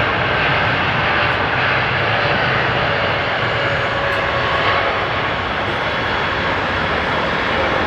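Jet airliner engines running at high power, a loud steady noise with faint whining tones in it that eases slightly in the second half.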